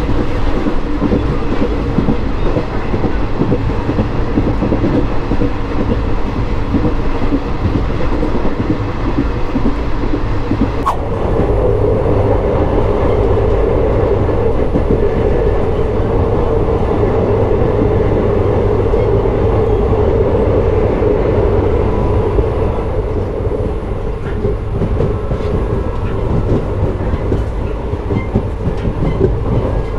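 Passenger train coaches running at speed, heard from an open coach door: a steady rumble of wheels on rails mixed with rushing air. About a third of the way in there is a sharp click, after which the running sound takes on a stronger mid-pitched drone.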